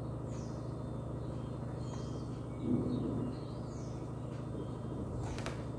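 A bird chirps faintly against a steady low background hum, in short high downward chirps every second or two. A brief low sound comes about three seconds in, and a click near the end.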